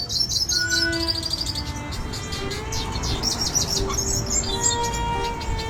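Several small birds chirping and twittering: quick high trills and repeated chirps overlapping throughout.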